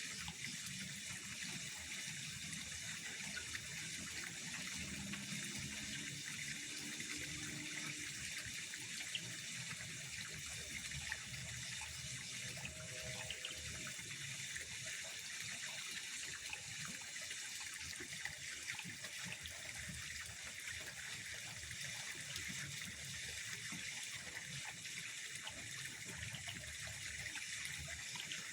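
Steady trickle of pond water, an even hiss that holds without a break.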